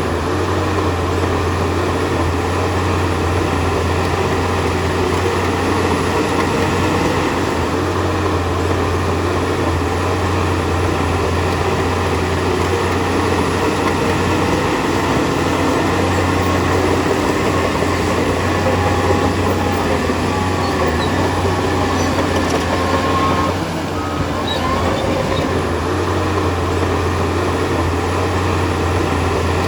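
Bulldozer's diesel engine running steadily under work, a constant low drone with heavy mechanical noise over it; the level dips briefly about three-quarters of the way through.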